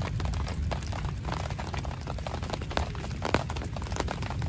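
Rain falling on a tent's fabric fly: a dense run of separate drop taps, some sharper and louder than others, over a steady low rumble.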